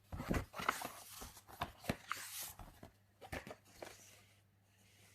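Paper rustling with irregular clicks and swishes for about four seconds, then dying away: the pages of a picture book being handled and turned.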